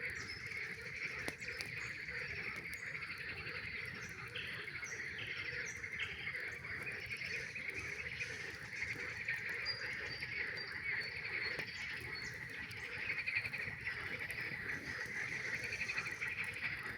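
Chorus of many frogs calling continuously as a dense, pulsing trill, with a few short higher calls over it. Occasional sharp crackles from a campfire come through.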